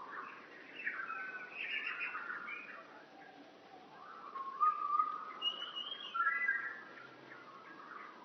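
Birds singing and calling: a run of short whistled chirps and warbling phrases, loudest around the middle, over a faint steady hiss.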